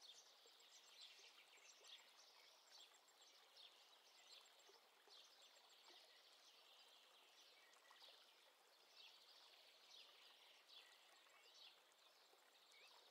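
Near silence: faint room tone with many small bird chirps in the background.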